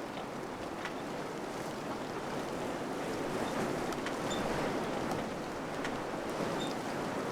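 Steady wind blowing, a rushing noise that swells a little midway, with a few faint clicks and brief high peeps.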